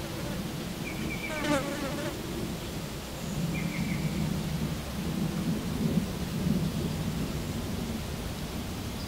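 A flying insect buzzing close by, a low wavering hum that swells in the middle, over a steady outdoor rumble. A short bird call with a run of falling notes comes about a second and a half in, and a brief high chirp just before four seconds.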